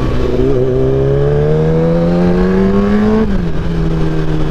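Motorcycle engine accelerating, its pitch rising steadily for about three seconds, then dropping about three seconds in and holding steady.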